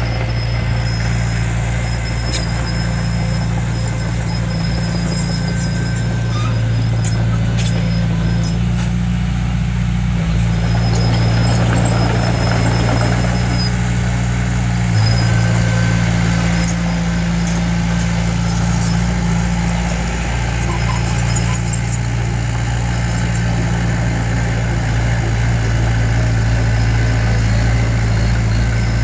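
Heavy construction machine's diesel engine running steadily, with brief high squeaks and clicks over it.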